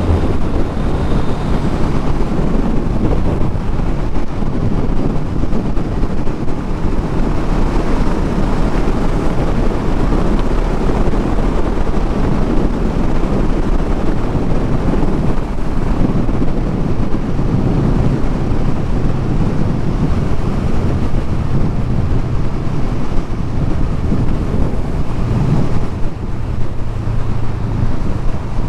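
Motorcycle engine running steadily at cruising speed, largely buried under heavy wind buffeting on the microphone.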